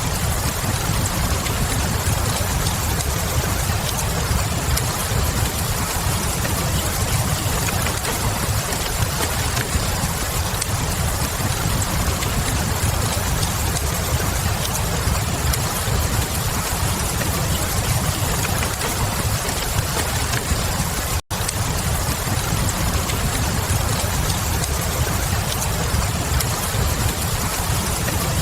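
Steady rain with a deep low rumble under it and light fireplace crackle. The whole sound cuts out for an instant about two-thirds of the way through.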